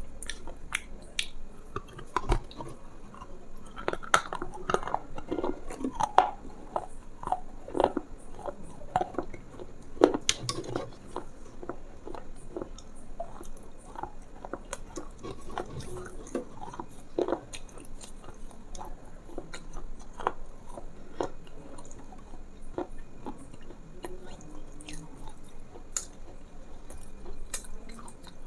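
Close-miked chewing and biting with crunchy crackles, irregular clicks coming several times a second throughout.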